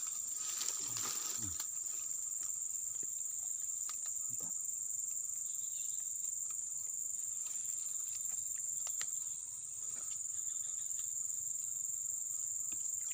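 Insects in the surrounding brush making a steady, high-pitched drone without a break, with a few faint clicks over it.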